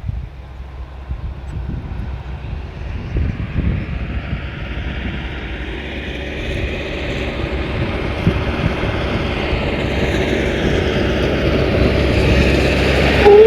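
Engine rumble with no speech, growing steadily louder, as of a motor vehicle or aircraft drawing closer.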